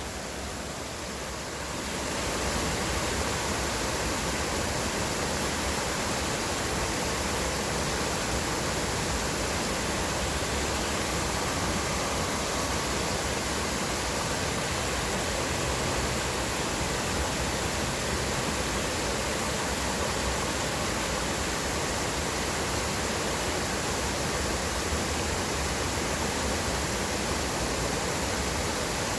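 Stream water rushing steadily, a constant even noise that swells up about two seconds in.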